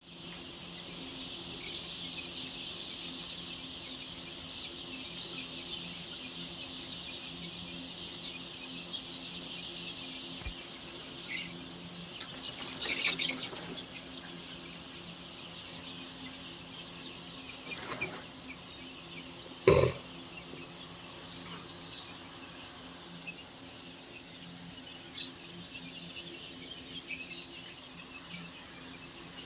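A flock of ten-day-old layer chicks peeping together in a continuous high chorus over a steady low hum, with a louder flurry of peeping about thirteen seconds in and a single sharp knock at about twenty seconds.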